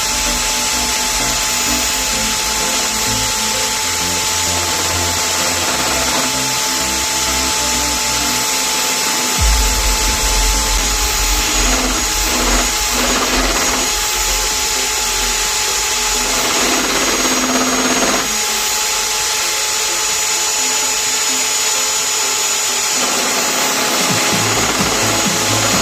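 Homemade drill-powered lathe running steadily with a constant motor whine.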